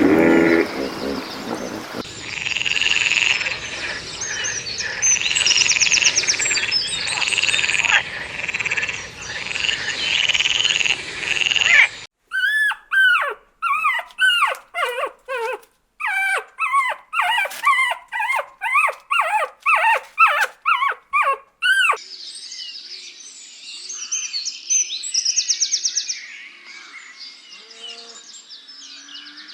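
Animal calls in several cut-together stretches: chirping at first, then a run of short, high, rising-and-falling yelps about two a second, then fainter chirping.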